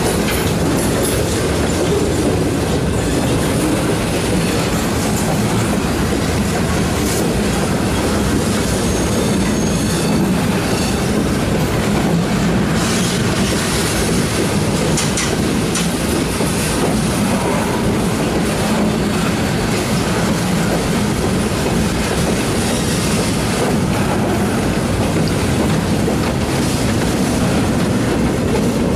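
Loaded freight flatcars rolling past: the steady rumble of steel wheels on rail, with the clickety-clack of wheels over rail joints and a faint high wheel squeal about ten seconds in.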